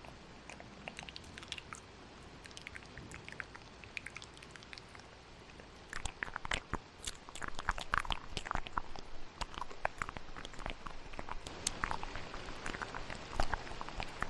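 Close-miked wet ASMR mouth sounds, quick clicks and smacks layered over steady rain. The clicking is sparse at first and turns dense and louder about six seconds in.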